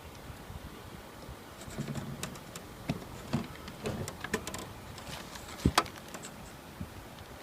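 Hands handling wires and metal spade terminals around an RV air conditioner's start capacitor: irregular small clicks, taps and rustles, with two sharp clicks close together a little before six seconds.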